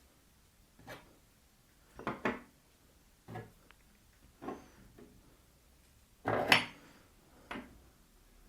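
Metal drill bits being set down and moved about on a piece of wood: a string of separate knocks and clinks, the loudest about six and a half seconds in.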